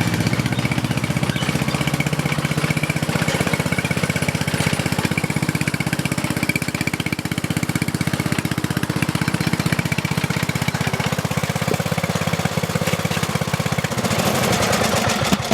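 A small engine running steadily with a rapid, even beat of firing strokes; the sound shifts about fourteen seconds in.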